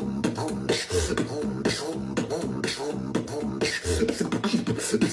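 Beatboxing: a beat built on the duck sound, a quacking buzz made by pushing air through one side of the tongue, layered with throat bass and sharp percussive hits in a steady rhythm.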